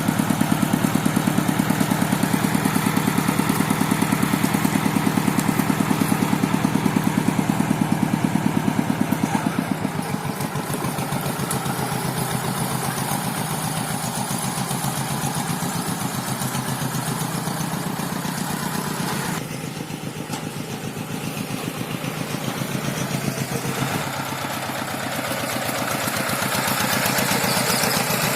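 Tractor engine running with a steady, rapid pulse while levelling a rice paddy. About ten seconds in it drops in level and its note shifts, then it rises again near the end as the load and throttle change.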